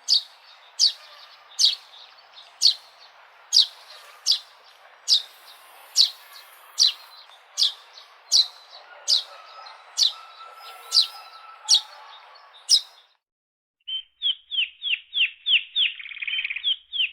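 Sparrow chirping: sharp single chirps about once a second over a faint background of other birds. After a short break near the end comes a quicker run of chirps, about three a second.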